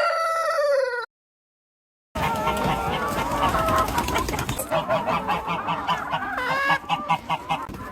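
Chickens clucking, several birds calling over one another in a steady, busy chatter. A call in the first second breaks off into about a second of dead silence before the clucking starts.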